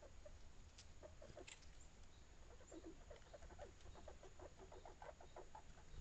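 Faint, soft clucking of chickens in quick runs of short notes, with a couple of brief high chirps about a second in.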